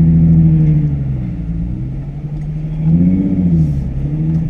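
Car engine pulling under throttle: its pitch is high at first, falls away, then climbs again about three seconds in before easing off.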